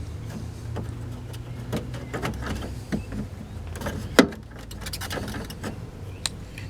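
Scattered light clicks and knocks of hand work on car parts, the loudest about four seconds in, over a low steady hum that fades out about halfway through.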